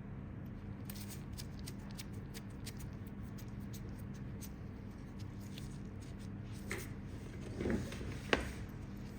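Pedicure tools working on a toenail: a run of small ticks and scrapes, then three louder clicks near the end, the last the sharpest.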